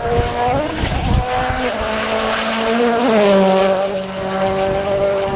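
Rally car engine running hard on a stage, its pitch jumping with gear changes about half a second and three seconds in, then holding steady. Strong wind buffets the microphone underneath.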